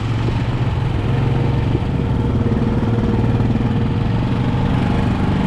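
ATV engine idling steadily at an even, low pitch.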